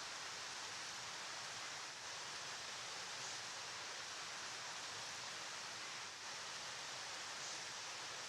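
River water flowing: a steady, even rushing hiss that does not change.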